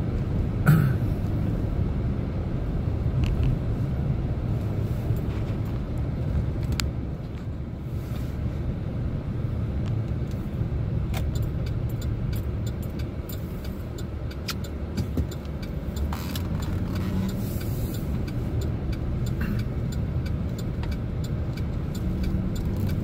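Chevrolet Silverado pickup driving along town streets, heard from inside the cab: a steady low rumble of engine and tyre noise with scattered light clicks and ticks.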